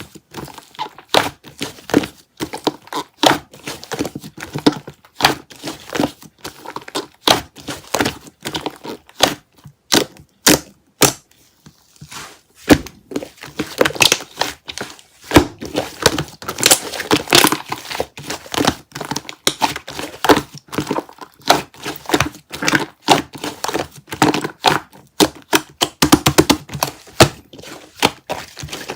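Fluffy slime being squished, poked and stretched by hand, giving quick irregular crackling and popping clicks that come thickest in two spells, about halfway through and near the end.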